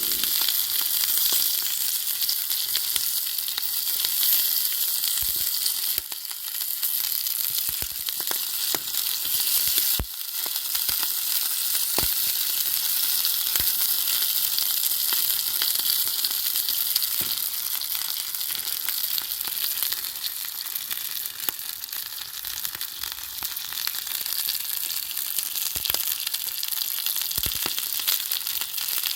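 Chicken cartilage sizzling as it fries, a steady hiss with scattered sharp pops.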